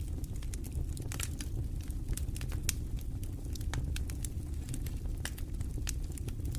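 Campfire burning, wood crackling with frequent irregular sharp pops over a steady low rumble.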